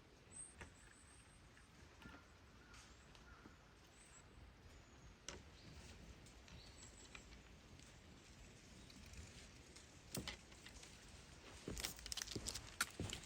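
Quiet outdoor ambience with a few faint high chirps, then scattered clicks and knocks that bunch together near the end, like gear being handled.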